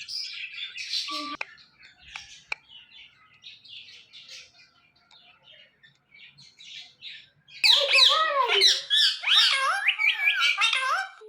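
Indian ringneck parakeet chirping softly, then breaking into loud, rapid squawking and chattering about two-thirds of the way in.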